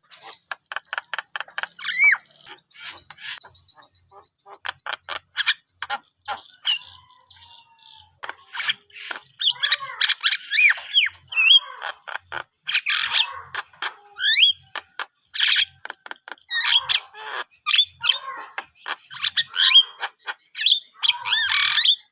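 Javan myna in full song: fast runs of clicking chatter and harsh notes, mixed with short whistled notes that slide up and down.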